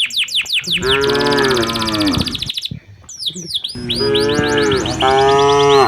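Cattle mooing: two long moos, the second running on to the end. Rapid, repeated high descending bird chirps go on throughout.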